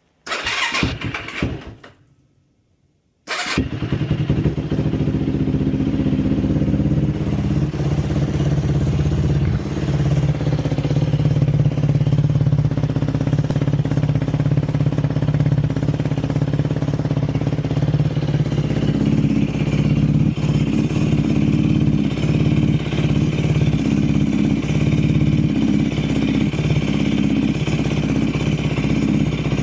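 Carbureted Yamaha YFZ450 single-cylinder four-stroke quad engine on a cold start: a first try sounds for about two seconds and dies away, then a few seconds in it fires and keeps running steadily. It is the struggling cold-weather start of a 20-year-old engine.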